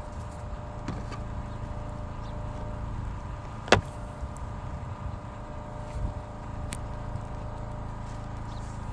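An engine running steadily, with one sharp knock about a third of the way in and a lighter click later.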